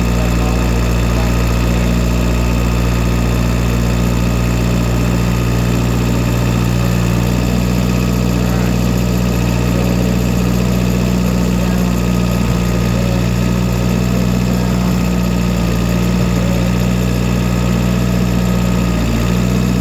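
Tractor engine running steadily at one speed, a low even hum with no revving.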